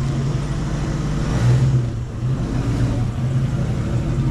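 A car engine running steadily, briefly louder about a second and a half in.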